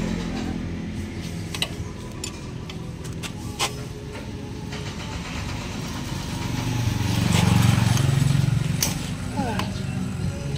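A low engine hum that swells and then fades about seven to nine seconds in, with a few sharp clicks scattered through it.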